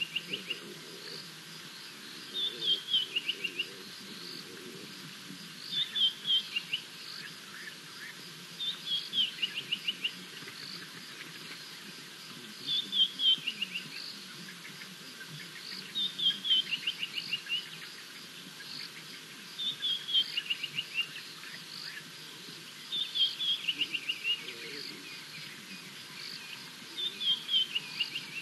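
A bird singing the same short song over and over: a quick run of clear notes falling in pitch, lasting about a second and repeated roughly every three to four seconds, over a faint background hum of the bush.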